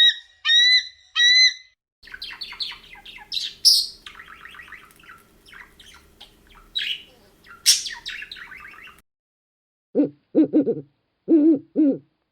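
A string of separate bird recordings. First come a few short, rising whistled notes repeated about twice a second. Then several seconds of rapid chattering chirps and squawks over a faint hum, and near the end a run of low hoots.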